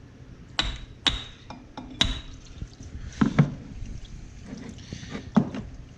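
Metal clinks and knocks as the cylinder is worked loose and lifted off a Polaris RMK 800 two-stroke snowmobile engine: several sharp taps, a few with a short metallic ring, and some duller bumps. The engine is blown, with a dropped piston skirt.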